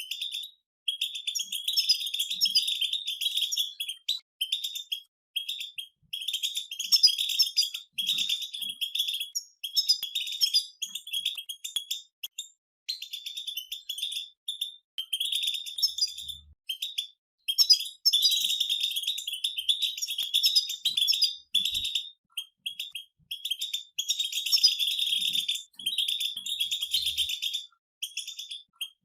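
Several European goldfinches singing together in rapid, tinkling twittering phrases a few seconds long with short pauses between them.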